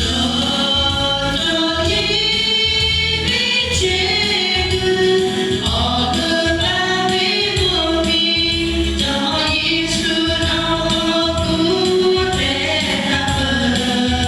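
Church choir singing a sacred song in sustained, many-voiced harmony.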